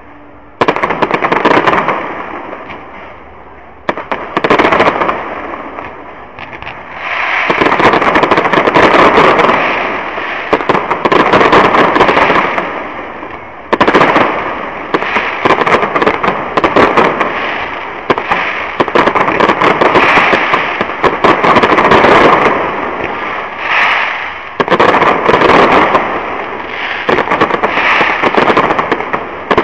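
Fireworks display: a sudden loud burst about half a second in, then more aerial shell bursts in quick succession with dense, nearly continuous crackling between them.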